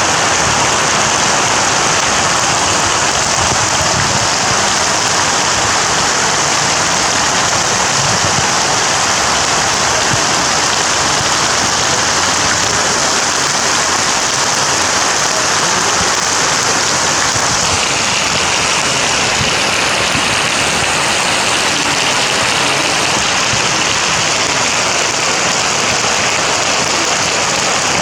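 Heavy rain pouring steadily, loud and even. About two-thirds of the way through, the hiss changes and a higher band comes in.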